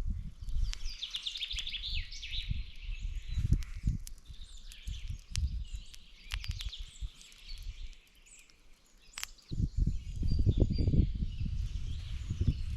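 Small birds singing and trilling, over uneven low thumps and rumbling with a few sharp clicks. The low rumbling grows much louder for the last three seconds.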